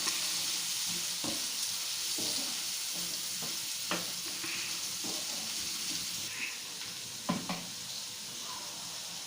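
Sliced onions frying in hot oil in a pan, sizzling steadily, with a few short scrapes of a spatula stirring them against the pan.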